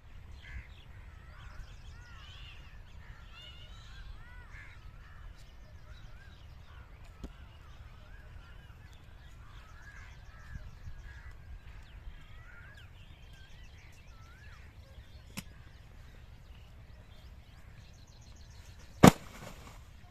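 Birds singing in short warbling phrases over a low steady rumble, with a single sharp loud click near the end.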